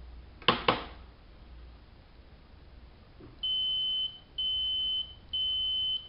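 Hanseatic HWM814A3D washing machine giving three long, evenly spaced beeps at one high pitch, the kind of signal such machines sound at the end of a programme. About half a second in, two sharp clicks come first and are the loudest sound.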